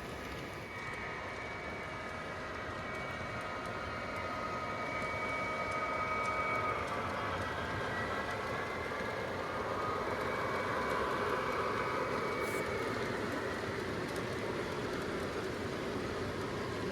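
O-gauge model electric train running along the track, a steady rolling rumble with a faint whine over it.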